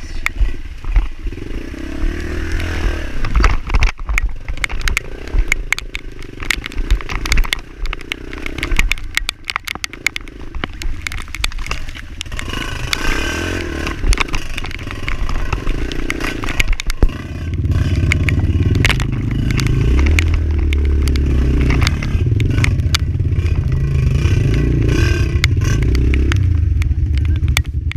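Dirt bike's single-cylinder four-stroke engine revving up and down over rough trail ground, with clattering and scraping knocks from stones and the bike. From a little past halfway a loud, steady low rumble takes over.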